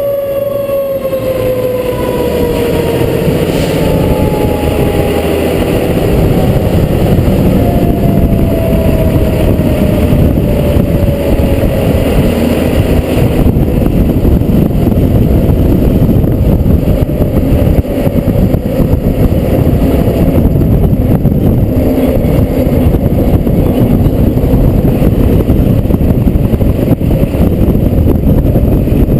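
Fire truck's siren slowly winding down in pitch over the first several seconds while the truck drives on. A loud, steady engine and road rumble fills the rest, growing louder over the first few seconds and then holding.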